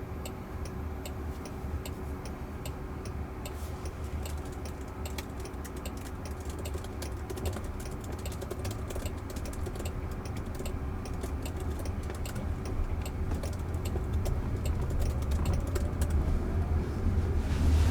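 Road and tyre rumble heard inside a moving car's cabin, growing steadily louder as the car gains speed, with a faint steady hum and a run of small irregular clicks, thickest in the middle.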